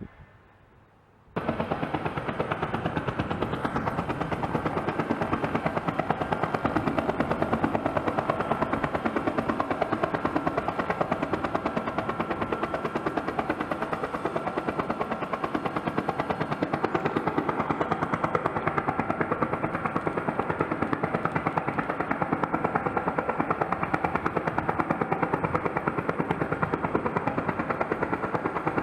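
Helicopter main rotor chopping with a fast, even beat under a thin steady whine, cutting in abruptly about a second in.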